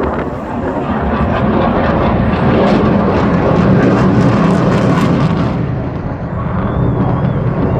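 Aircraft engine noise from a plane flying past at an air show: a dense, loud rush that swells to its loudest a little after the middle, eases off near the end and builds again.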